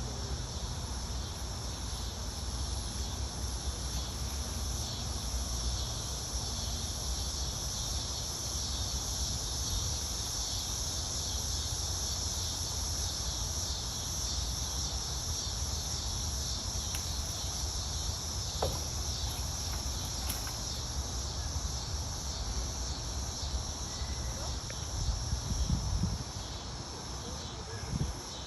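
A steady, high-pitched chorus of insects, over a low rumble that swells in a few short bursts near the end.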